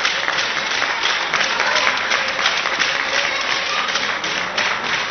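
Crowd applauding: dense, steady clapping from many spectators, with a few faint voices among it.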